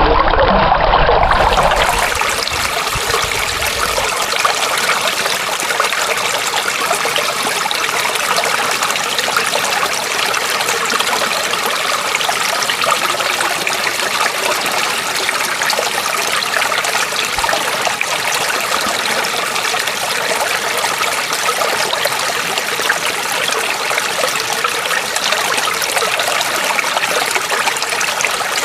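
Water trickling and babbling steadily, like a small stream. In the first second or two a louder, deeper rushing sound gives way to it.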